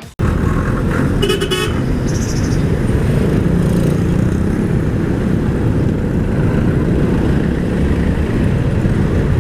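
Steady wind rush and road noise from riding a motor scooter, with a brief vehicle horn toot about a second and a half in.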